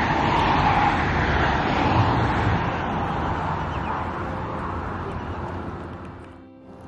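Road traffic: a vehicle passing, its tyre and engine noise loudest in the first couple of seconds and then fading away.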